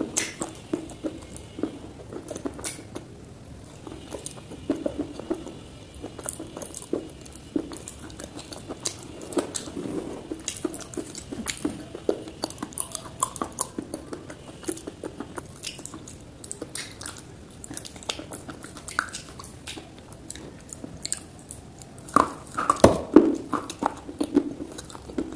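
Close-miked chewing of dry clay (multani mitti): small crunchy crackles throughout, with a louder crunching spell near the end.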